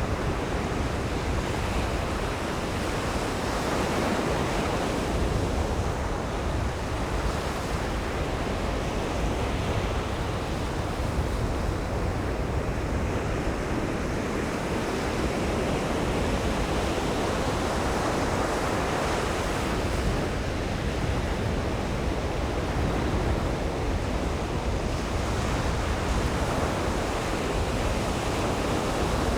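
Ocean surf breaking and washing on a beach in a steady roar that swells and eases slowly, with wind on the microphone adding a low rumble.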